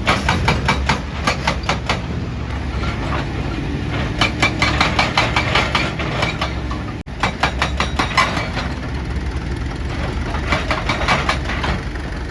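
Excavator's hydraulic breaker hammering rock in runs of rapid blows, several a second, over the steady running of the engine. The sound drops out for an instant about seven seconds in.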